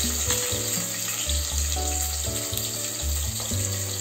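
Chopped onions sizzling in hot oil in a steel pot, a steady hiss, under background music with sustained bass and melody notes.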